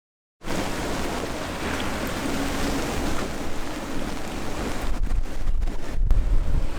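Strong wind blowing over the boat and buffeting the microphone: a steady rush, starting abruptly about half a second in, with gusty low rumble growing heavier from about five seconds in.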